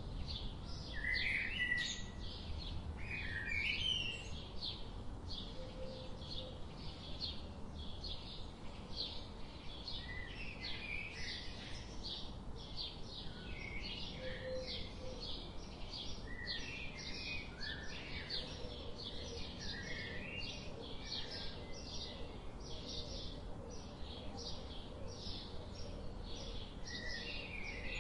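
Birds chirping: a short chirp repeated about twice a second, with other brief, pitch-gliding calls scattered over it.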